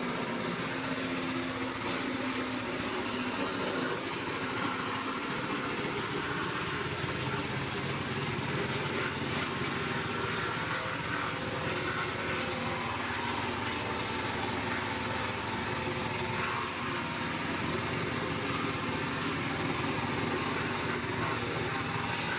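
Diesel engine of a wood chipper running steadily.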